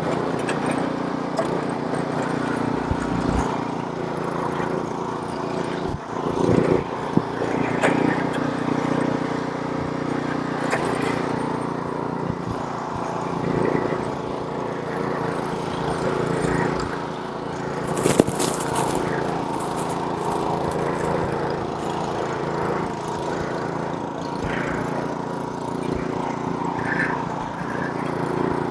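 Small gas snowblower engine running steadily under load while throwing snow, with a brief sharp knock about eighteen seconds in.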